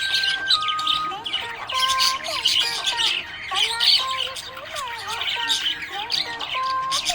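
Budgerigars chirping and chattering in fast, dense twitters, over background music carrying a melody of held notes.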